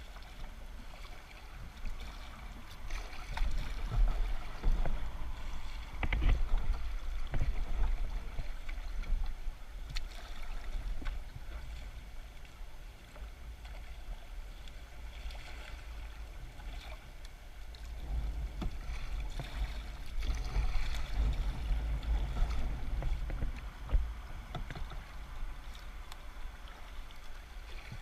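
Raft being paddled down a shallow river: water splashing and scattered knocks of paddle and hull, over a low rumble of wind on the microphone that swells twice.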